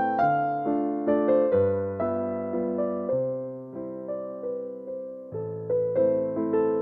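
Slow, gentle solo piano music: soft chords and single notes struck about every half second to a second, each one fading before the next.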